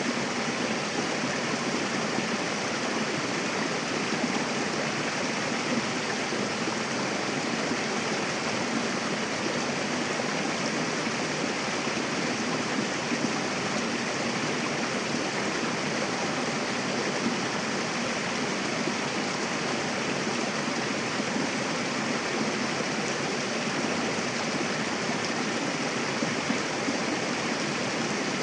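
Mountain river rushing steadily over rocks, a dense even hiss of flowing water with no breaks.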